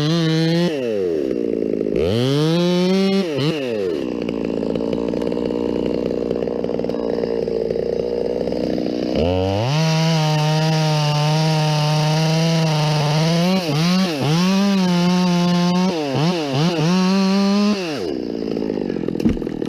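Two-stroke chainsaw run at full throttle in stretches, dropping back to idle between them, with several quick throttle releases and pickups near the end before settling to idle.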